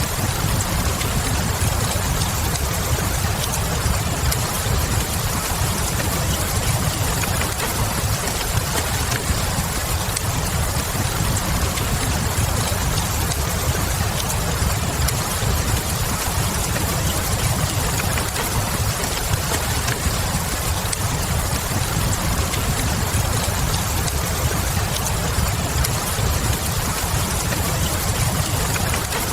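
Ambience mix of steady rain with a continuous low rumble, and faint scattered crackles from a log fire in a fireplace.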